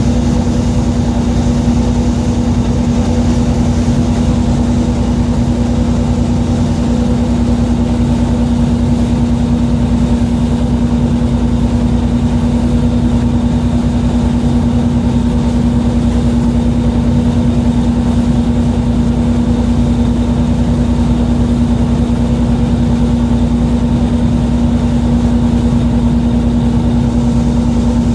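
Fishing boat's engine running steadily, a constant loud drone with a low rumble that does not change.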